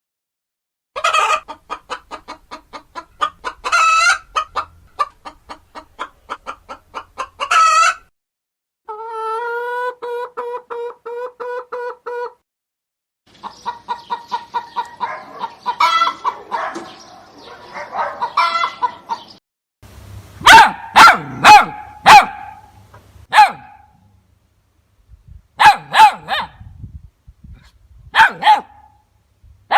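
Chickens clucking and cackling in fast runs of calls, then a series of single loud squawks, in several separate stretches with short breaks between them.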